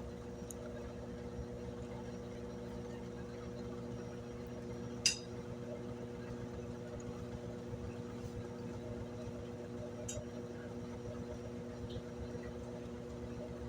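Brastemp BWK17 washing machine in its intermediate spin, the motor and drum running at a steady, unchanging pitch. A sharp click about five seconds in, with a couple of faint ticks before and after.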